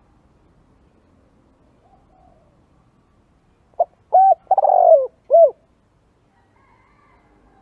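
Spotted dove cooing once, about halfway through: a phrase of four notes, two short ones, then a long falling coo, then a short closing note.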